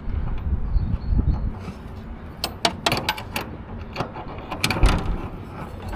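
Sharp metallic clicks and knocks of hand work on truck parts, some in quick clusters, starting about two and a half seconds in, over a low rumble.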